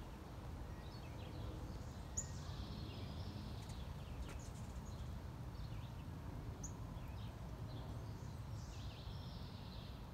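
Outdoor ambience of birds calling: a few short, sharp high chirps, about two seconds in and again near seven seconds, and softer twittering, over a steady low rumble.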